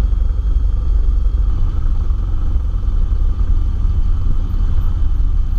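Cessna 172's piston engine and propeller running at low power, a steady low rumble.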